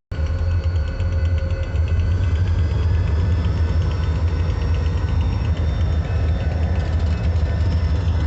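Diesel locomotive engine running steadily at idle: a loud, even low rumble.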